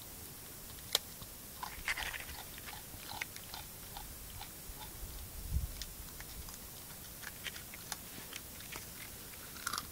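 Swamp wallaby chewing a biscuit: irregular crunches and clicks.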